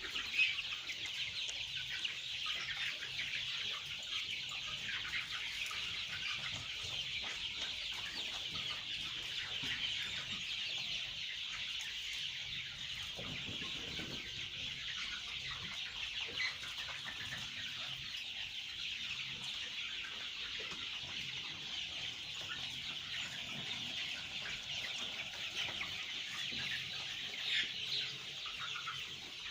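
A large flock of farmed chickens calling continuously, many overlapping clucks and cheeps blending into a steady din.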